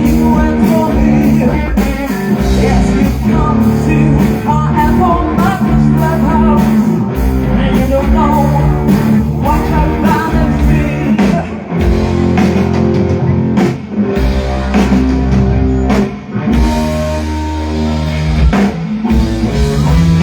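Rock band playing live: electric guitar, bass and drum kit with singing.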